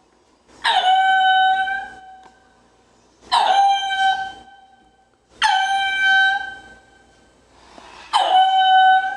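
An animal calling four times. Each call starts sharply, drops quickly in pitch, then holds a steady high note for about a second.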